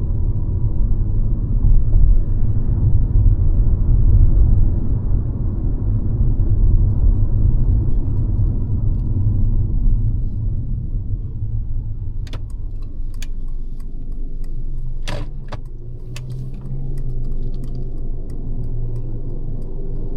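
Mercedes-Benz C-Class (W206) four-cylinder engine and road noise while driving: a steady low rumble that eases off gradually in the second half. A few sharp clicks come in the middle.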